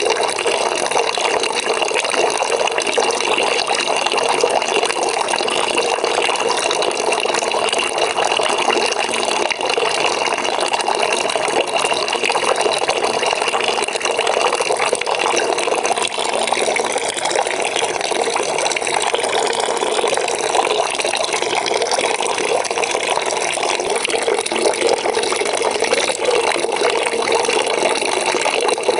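Water running from a tap into a bucket, a steady splashing fill.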